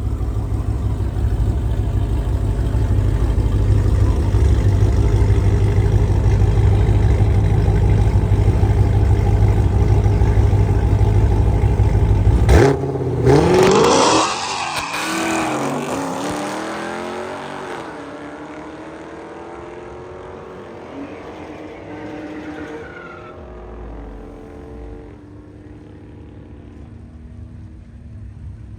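A drag car's engine runs steadily at the line, then launches about twelve seconds in. Its pitch climbs and drops back several times as it shifts up through the gears on its run down the strip, and it fades away over the last few seconds.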